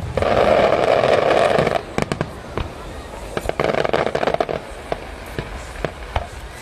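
Aerial fireworks bursting: a string of sharp bangs and crackles, with two stretches of loud rushing noise about a second long, the first right at the start and the second about halfway through.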